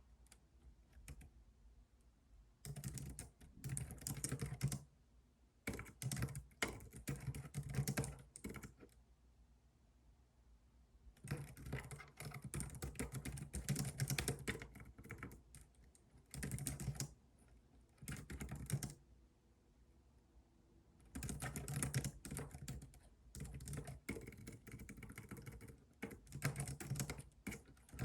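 Typing on a computer keyboard in bursts of rapid key clicks lasting a few seconds each, broken by short pauses.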